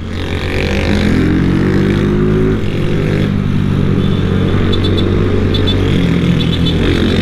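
Honda CG 160 Titan's air-cooled single-cylinder engine pulling under acceleration while riding, its pitch climbing through a gear, dropping at a shift about two and a half seconds in, climbing again and dropping once more near the end.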